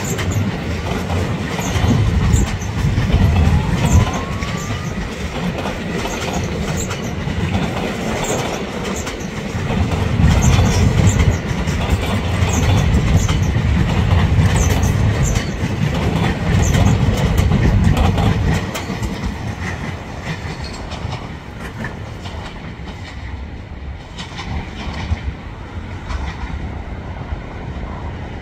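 Blue Train passenger coaches rolling past on the rails: a steady low rumble with repeated clickety-clack of wheels over rail joints. The sound drops off and fades about two-thirds of the way through as the last coach moves away.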